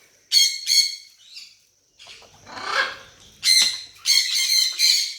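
Young parrots (African grey and sun conure chicks) squawking in harsh, shrill calls, once near the start and again in a longer run near the end, with a short rustling sound in between.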